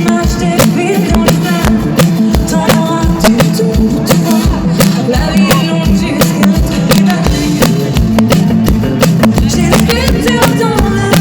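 Live rock band playing a song with a steady drum beat and a sung vocal line, recorded loud with bad, distorted sound.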